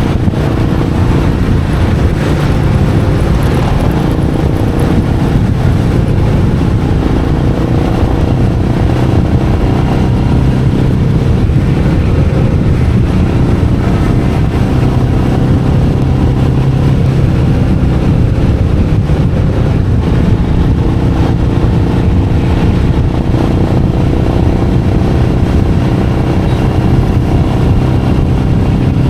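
Royal Enfield Meteor 350's single-cylinder engine running steadily under way, its pitch shifting only slightly.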